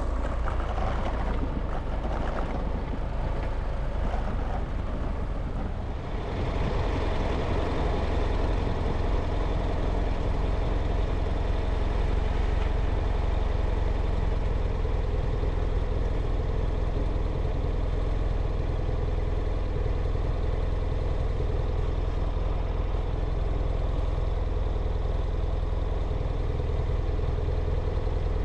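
Vehicle engine running steadily while under way, with a heavy low rumble of road and wind noise. There is a brief lull about six seconds in.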